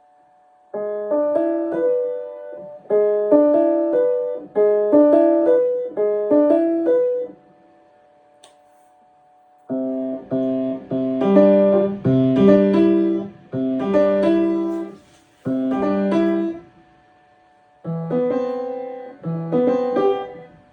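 Piano played in short phrases that stop and start again after pauses of a second or two, as when a passage is being practised.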